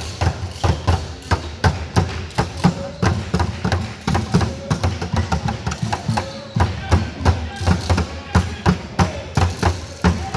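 Basketball being dribbled and bouncing on a gym floor: a run of repeated loud thuds, several a second, with voices in the background.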